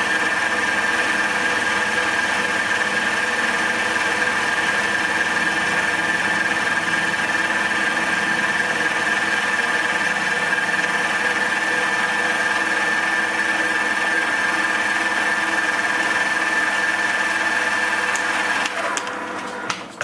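Milling machine with a 16 mm end mill taking a cut along the edge of an aluminium plate: a steady mechanical noise with a high-pitched whine over it. The machine stops near the end.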